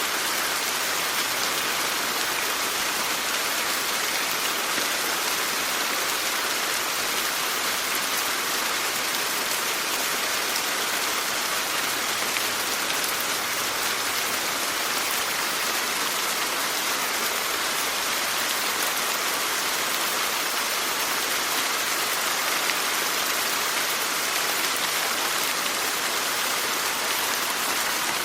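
Steady rain falling, an even hiss of drops without a break or a change.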